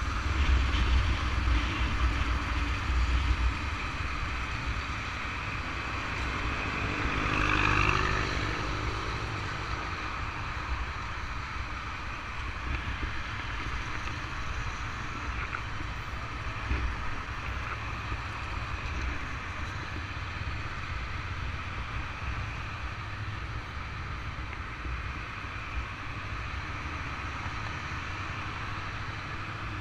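Motorcycles riding in convoy: steady engine rumble under wind noise, with a short rising whine about eight seconds in.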